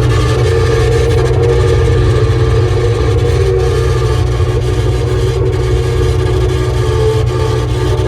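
ASV VT-70 compact track loader running, a steady low engine drone with steady whining tones over it: the noise the machine makes when turning to the left.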